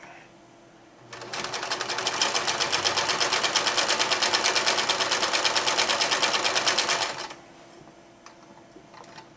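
Kenmore 158-13360 electric sewing machine stitching a pass at a larger stitch length. It speeds up about a second in, runs at a fast, even needle rhythm for about six seconds, then stops.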